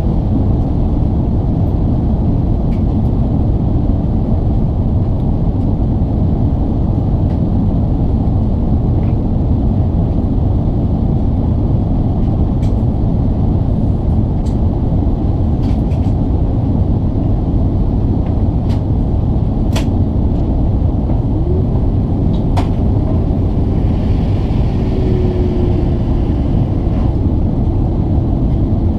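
Steady low rumble inside an Airbus A380-861 cabin, the engines and airflow heard from a window seat, with a few faint clicks and rattles from the cabin; a faint steady tone joins after about twenty seconds.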